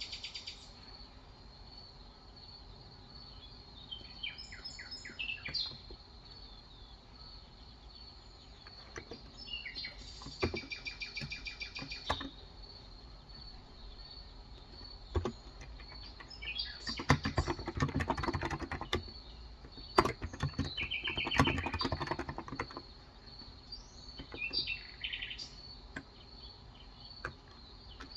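Small birds chirping and trilling at intervals, with bursts of typing on a Cox Endeavor electro-capacitive (Topre-style) 35 g tenkeyless keyboard. The key clicks come thickest and loudest in the second half.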